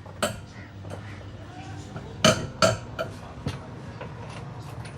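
Several sharp metallic clanks and knocks, as of tools and car parts struck together: one shortly after the start, a loud pair close together a little over two seconds in, then two lighter ones.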